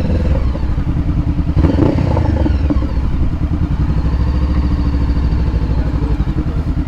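Honda CBR500R's parallel-twin engine running steadily at low revs, with an even low pulsing.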